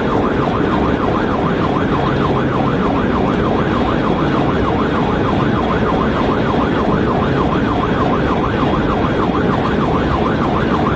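Police cruiser siren in a fast yelp, the pitch swinging up and down several times a second without a break, over the cruiser's engine and road noise during a high-speed pursuit.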